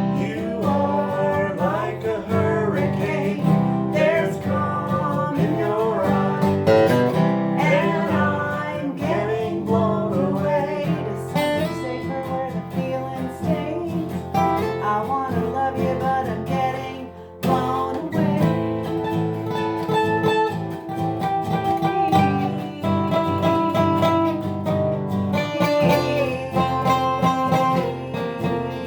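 Acoustic guitar strumming chords, with a bending melody line carried over them. The playing eases off briefly about two thirds of the way through, then picks up again.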